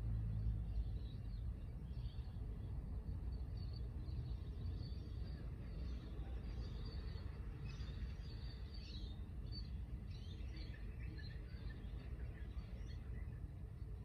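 Several small birds chirping and calling, most busily in the second half, over a steady low outdoor rumble.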